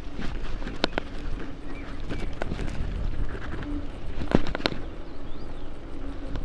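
Riding noise of a bicycle: a steady rush of wind and tyres with low rumble, and sharp clicks and rattles of the bike over bumps, about a second, two and a half seconds and four and a half seconds in.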